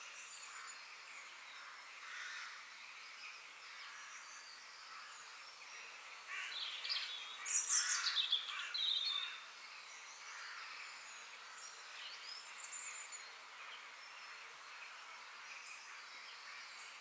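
Forest ambience with several birds chirping and calling over a steady background hiss, a louder cluster of quick chirps and trills about six to nine seconds in.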